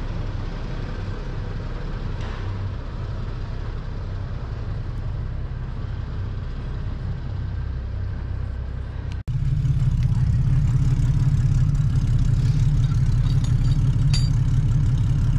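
Vehicle engine idling steadily. After a break about nine seconds in, the idle comes back louder and lower, closer by.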